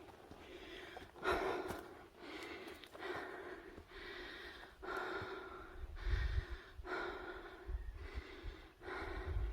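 Heavy, rhythmic breathing of a hiker climbing a steep trail, about one breath a second, with low rumbles near the end.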